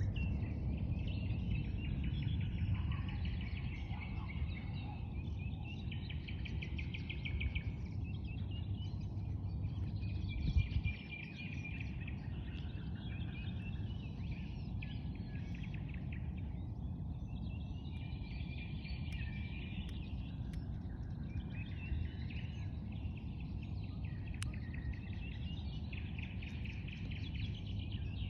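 Several songbirds singing in overlapping warbling and trilling phrases over a steady low rumble, with a single brief thump about ten seconds in.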